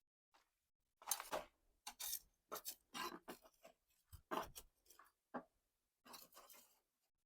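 Faint, irregular scraping and crunching as potting soil is dug and scraped away around the roots of a large cactus in a big pot, in short strokes starting about a second in.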